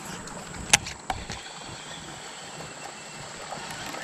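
Steady rush of flowing creek water, with a sharp click about three quarters of a second in and a lighter click just after.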